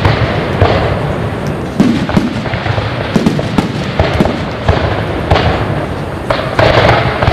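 Fireworks display: a dense, continuous run of bangs and crackles from bursting shells, with several sharper reports standing out.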